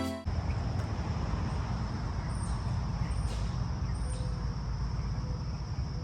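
Late-summer outdoor ambience: a steady high drone of insects, a few short bird chirps, and a low steady rumble underneath.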